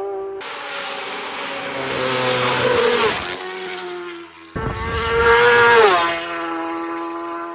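Racing superbikes passing at full speed, one and then another, each engine's high note swelling and then dropping in pitch as it goes by. The sound cuts abruptly a little past halfway, just before the second pass.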